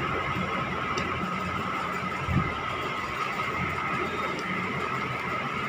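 Electric kettle at a steady rolling boil, the water bubbling with instant noodles in it, and a brief low thump about two and a half seconds in.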